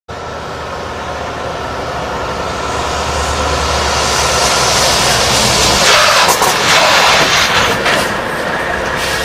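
Heavy truck driving closer, its engine and road noise growing steadily louder. About six seconds in the low engine drone drops away and a loud hissing rush sets in for a couple of seconds, as the automatic emergency braking brings the truck to a hard stop.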